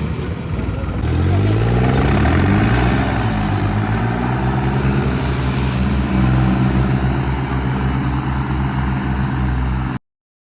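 Tractor's diesel engine revving up over the first couple of seconds, then running steadily under load with a pulsing low beat. It cuts off suddenly near the end.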